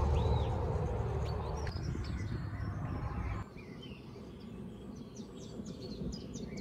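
Birds chirping with short high tweets over a low rumbling noise; the rumble stops abruptly about three and a half seconds in, leaving quieter background with more chirps.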